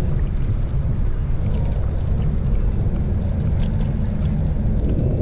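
Steady low rumble of wind and riding noise on a chest-mounted action camera's microphone as a bicycle is ridden, with a few faint clicks about three and a half to four seconds in.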